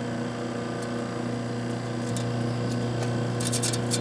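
1952 Vornado room air conditioner running: a steady electrical hum from its compressor and fan motors, with scattered crackling ticks and a quick flurry of them near the end as the fan flings dirt out of a badly clogged condenser. The compressor is low on refrigerant, which the owner takes as why it runs so quietly.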